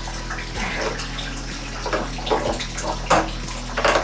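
Water draining from a water heater tank into a bathtub, running steadily, with a few sharp knocks in the second half from the drain fittings being handled.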